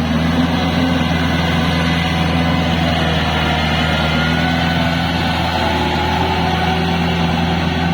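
Kubota L4503 tractor's diesel engine running steadily while it drives a rotavator through a flooded paddy field, puddling the soil.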